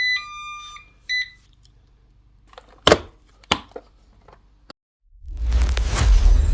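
A few short, high electronic beeps, then two sharp clicks, then a loud rushing noise heavy in the bass that comes in about five seconds in.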